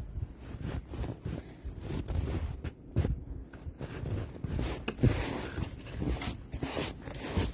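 Snow shovel scraping and scooping snow in irregular strokes.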